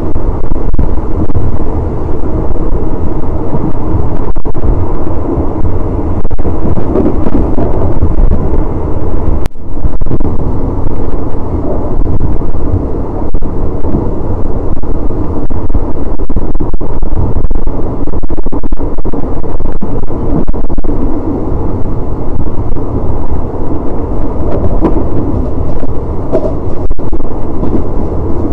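Continuous rumble and clatter of a third-class passenger carriage running at speed, picked up at its open window, with heavy wind noise buffeting the microphone.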